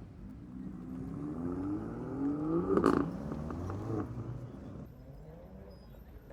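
A car's engine accelerating hard, its pitch rising for about three seconds to a loud peak with a sharp crack, then falling away and fading out.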